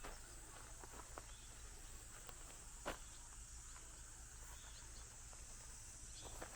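Faint outdoor ambience: a steady high-pitched insect drone with scattered light clicks, one sharper click about three seconds in.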